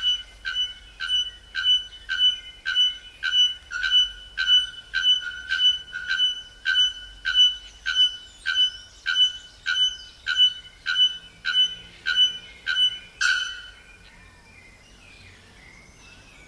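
Male bare-throated bellbird calling: a long, evenly spaced series of short, ringing, metallic bell-like notes, about two a second, ending with a louder note, then faint forest background.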